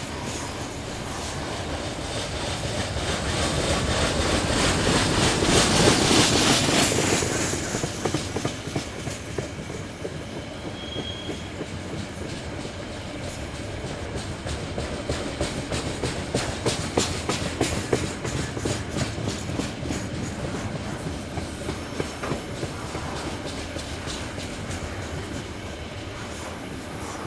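A train rolling past: a broad rumble swells to its loudest a few seconds in, then eases to a steadier run of wheels clicking over the rail joints.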